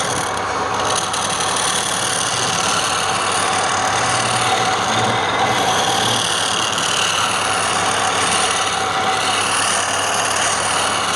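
Wood lathe running steadily, an even machine noise with a faint steady hum.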